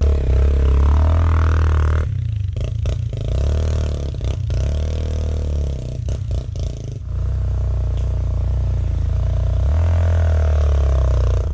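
Dirt bike engine running as it is ridden, its pitch rising and falling with the throttle, with clattering knocks from the bike over rough ground.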